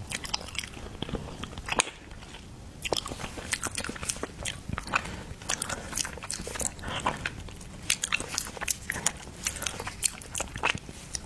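Close-up eating sounds: chewing and wet lip-smacking on spicy soft-shell turtle, with many quick, irregular sharp clicks.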